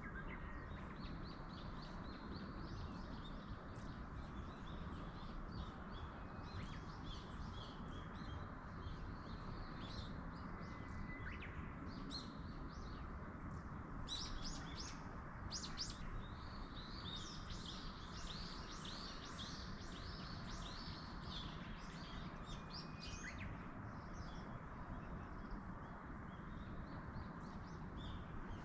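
Small birds chirping and trilling, with many short calls and the busiest stretch in the middle, over a steady low rush of wind or distant water.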